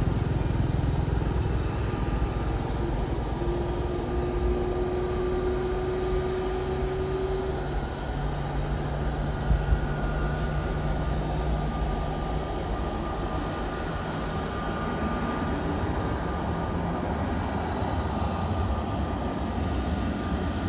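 Jet airliner engines, most likely the Airbus A321's, as a steady rumble with faint held whining tones over it. A brief sharp knock about halfway through.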